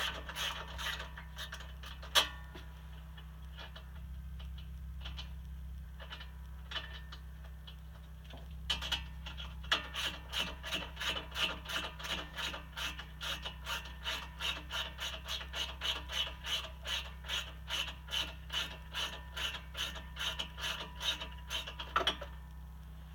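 Socket ratchet clicking in short, even strokes as a spark plug is backed out of a Honda V-twin engine's cylinder head. A brief run of clicks opens, with a single sharp snap about two seconds in, then after a quieter stretch a long steady run at about three to four clicks a second.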